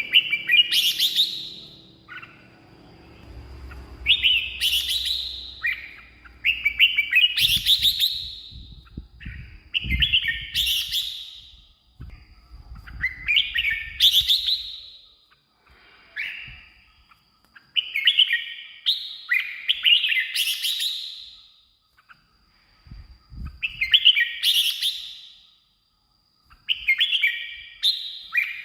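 Red-whiskered bulbul singing: short, bright whistled phrases every two to three seconds, each climbing in pitch to a high flourish at its end.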